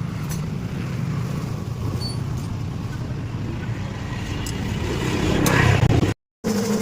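A motor vehicle engine running with a steady low rumble that grows somewhat louder about five seconds in.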